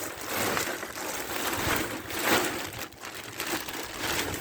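Bagged wood mulch being handled: rustling and crunching of the mulch and its plastic bag, swelling and easing a few times.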